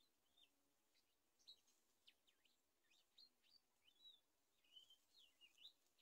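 Faint, high bird chirps: a quick run of short whistled notes sliding up and down, coming thickest from about a second in.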